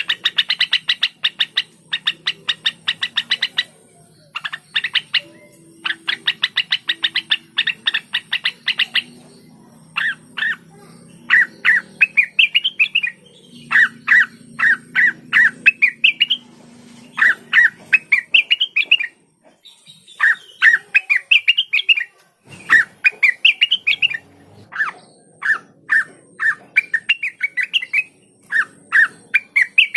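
Cucak wilis (rengganis) singing: rapid runs of sharp chattering notes for the first several seconds, then phrases of short rising whistled notes repeated over and over with brief pauses between.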